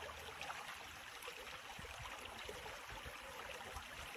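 Faint, steady rush of water, with small scattered ticks through it.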